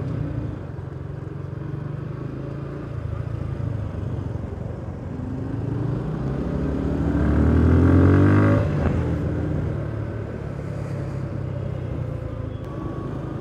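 Suzuki Gixxer 155's single-cylinder engine running in traffic. About two-thirds of the way through it revs up with rising pitch, loudest around eight seconds in, then drops back suddenly to a steady low drone.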